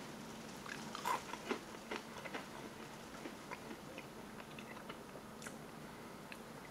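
Close-up chewing of a dry military ration cracker: small crisp crunches, most frequent in the first couple of seconds, then thinning to occasional soft crunches.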